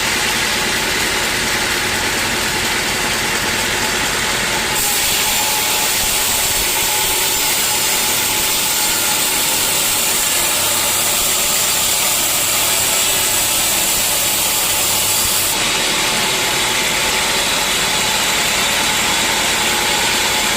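Sawmill saw running steadily. From about five seconds in to about fifteen seconds in a harsher, brighter hiss joins it as the blade cuts through a teak log.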